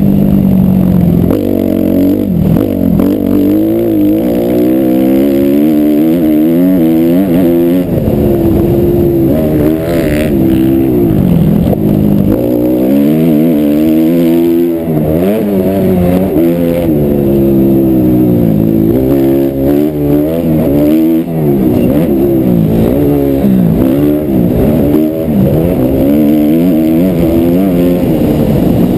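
Suzuki RM-Z250 motocross bike's four-stroke single-cylinder engine being ridden hard, its revs climbing and dropping again and again every second or two as the rider works the throttle and gears.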